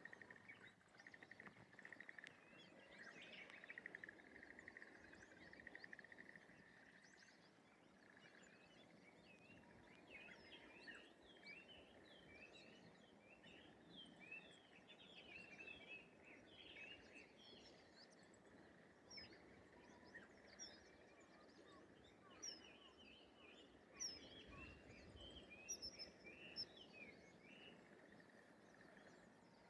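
Quiet rice-paddy morning ambience. For about the first seven seconds there is a fast, even rattling trill at one pitch, the kind of clattering call that the recordist could not place as bird, frog or other creature. After that, many small birds chirp in quick short notes over a faint hiss.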